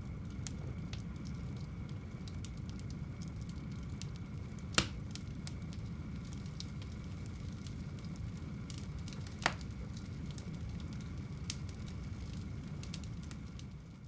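Wood fire burning in a home fireplace: a steady low rumble of flames with faint crackles and two sharp pops about five seconds apart. The sound fades near the end.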